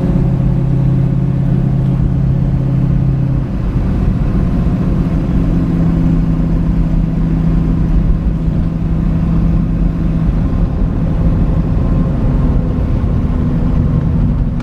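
Chevrolet Nova hot rod's engine running under way. The loudness dips briefly about three and a half seconds in, then the engine settles at a higher, steady note that eases back again after about ten seconds.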